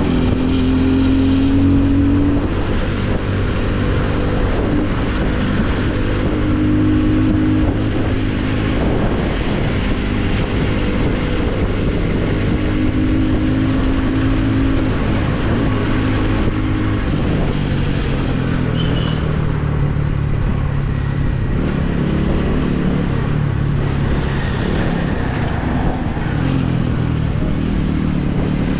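Motorcycle engine running while riding, its pitch shifting with throttle and gears and settling lower about halfway through, over a steady rush of wind on the action camera's microphone.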